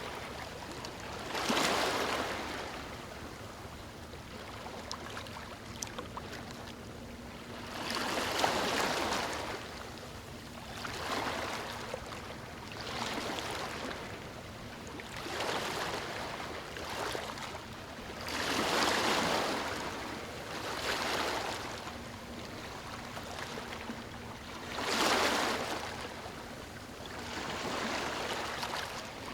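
Ocean waves breaking and washing up a beach: a swell of surf every few seconds, the biggest about 1.5, 8.5, 19 and 25 seconds in, over a steady wash.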